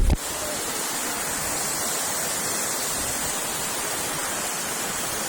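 Steady rushing water of a nearby waterfall, an even hiss with no breaks. A brief low bump at the very start.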